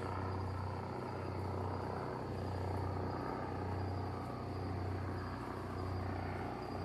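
Police helicopter flying overhead at night: a steady low rotor and engine drone that swells and eases slightly, with crickets chirping faintly behind it.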